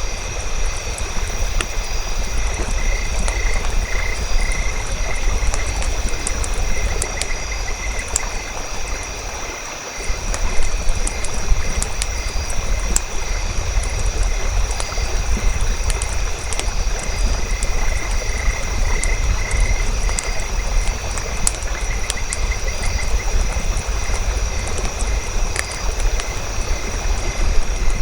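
Campfire crackling in irregular sharp snaps over a steady low rumble, which drops away briefly about ten seconds in. Behind it runs a steady high drone and a pulsing chirping chorus of night animals.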